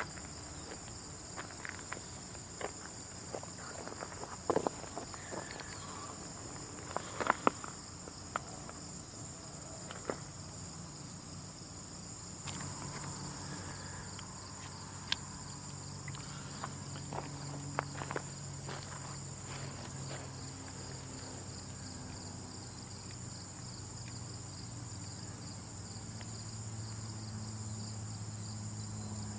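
Ant-colony sound-effect ambience: a steady high insect chirring with scattered small clicks and ticks, and a low hum that comes in about midway and grows near the end.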